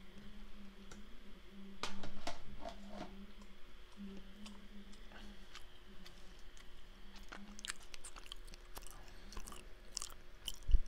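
A person biting into and chewing a moist homemade muffin close to the microphone, with small wet mouth clicks. The loudest part comes about two seconds in.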